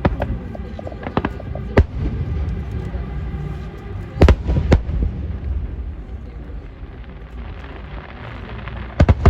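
Fireworks exploding: scattered sharp bangs, the loudest pair about four seconds in and two more close together near the end, over a steady low rumble.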